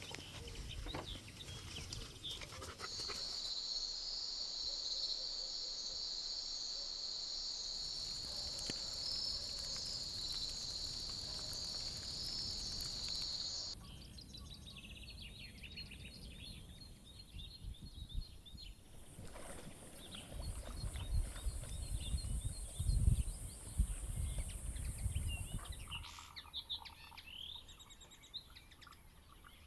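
Outdoor nature ambience: a steady high-pitched insect chorus for about ten seconds that cuts off abruptly, followed by scattered bird chirps. Low thumps and rumbles come through in the middle stretch of the bird section.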